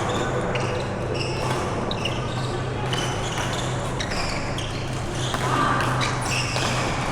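Badminton doubles rally in a sports hall: racket strikes on the shuttlecock and sharp shoe squeaks on the court floor, over background voices and a steady low hum.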